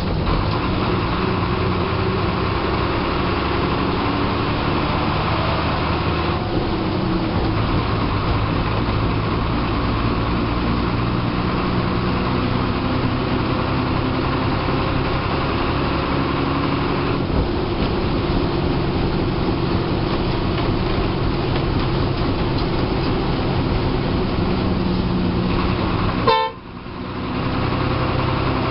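TSRTC bus's diesel engine running under way, heard from the driver's cabin with steady road noise; the engine note shifts up and down in pitch as the bus changes speed. About 26 seconds in, the sound drops away abruptly for a moment, then comes back.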